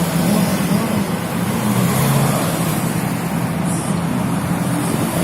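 Car engines running with a steady low drone over a continuous noisy haze.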